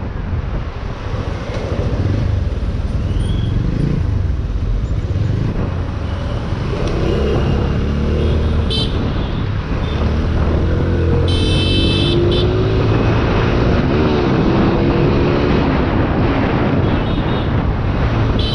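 Motorcycle riding through road traffic, with the engine running under a heavy low rumble of wind and road noise. Short high horn beeps come from traffic, the clearest a little after the middle.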